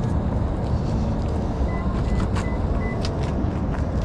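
A vehicle engine idling with a steady low rumble, with a few short high beeps like a vehicle warning chime a little under two seconds in, and some light clicks.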